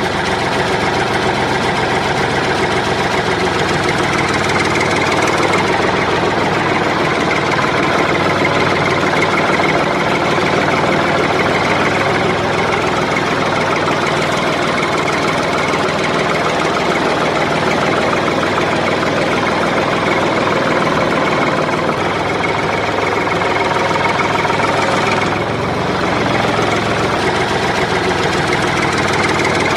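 Tractor engine sound effect, running steadily at a chugging idle.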